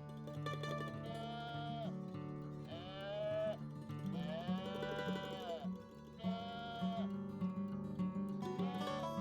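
A farm animal calling over plucked guitar background music: four long, drawn-out calls that rise and fall in pitch, with a fifth beginning near the end.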